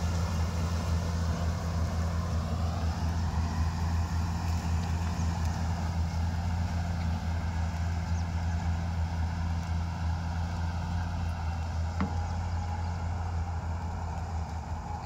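A harvester's engine and machinery running steadily with a deep, even drone, a mid-pitched tone in it rising a little about two to three seconds in.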